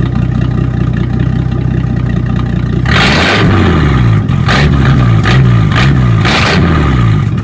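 Straight-piped Ford 300 (4.9 L) inline-six of a 1974 Ford F-250, freshly cold-started at 19 degrees, idling steadily. About three seconds in it is revved in several quick blips, its pitch rising and falling with each, then it settles back toward idle near the end.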